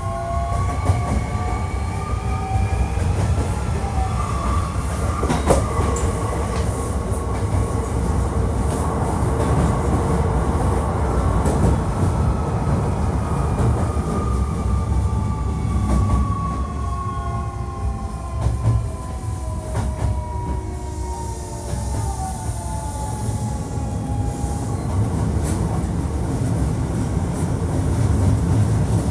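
Hankyu 1300 series train running, its Toyo IGBT inverter and traction motors giving a whine of several tones. The whine rises for the first few seconds, then slowly falls in pitch as the train slows, over a steady wheel-on-rail rumble with scattered clicks from the rail joints.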